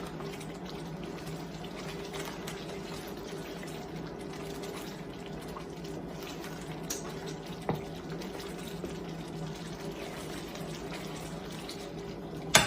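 Heavy cream and shredded cheddar simmering in a pan on the stove as the cheese melts into a sauce, a steady bubbling over a low hum, with two light clicks near the middle.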